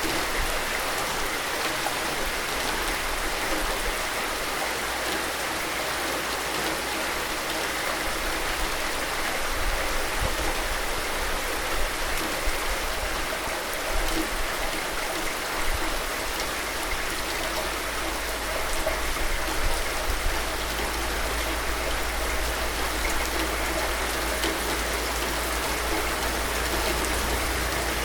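Steady rain falling, an even hiss with light swells in loudness.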